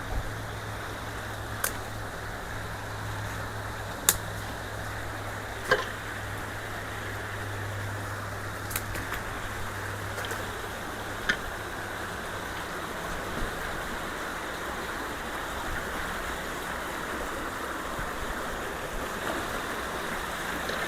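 Creek water rushing steadily through a culvert after rain. About six short, sharp clicks or knocks fall in the first half.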